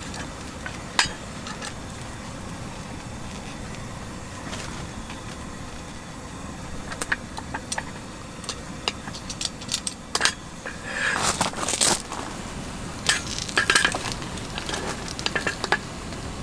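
Metal cookware and utensils clinking and clattering in scattered knocks, with a busier run of clatter past the middle, over a steady hiss while a breakfast sandwich is cooked.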